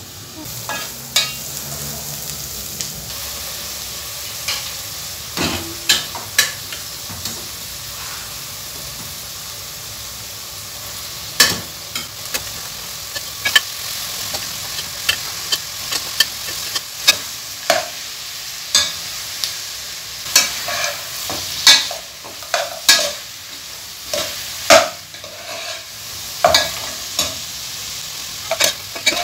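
Beef and onions sizzling in a pot, with a metal ladle scraping and knocking against the pot as they are stirred. The knocks come irregularly, more often in the second half.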